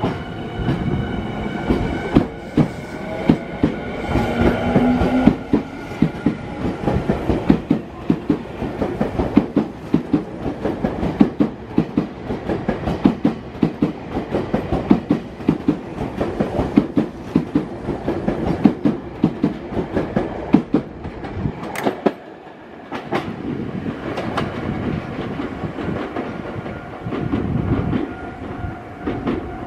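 Tokyu 5000 series electric train pulling out and accelerating past: a motor whine rising in pitch as it starts, then wheels clacking over rail joints in a quickening rhythm. The clacking stops suddenly about 22 seconds in as the last car passes, leaving a low rumble.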